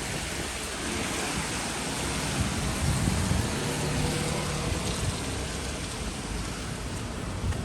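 Steady rain falling, an even hiss, with a low rumble swelling about three seconds in.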